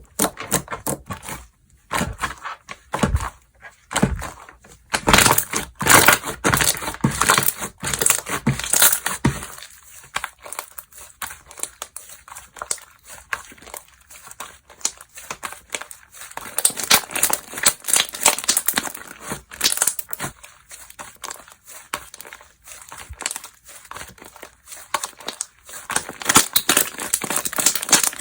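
Hands squishing, stretching and pressing slime, giving a dense run of small clicks and pops. It is loudest over the first ten seconds, eases off for a few seconds, then picks up again.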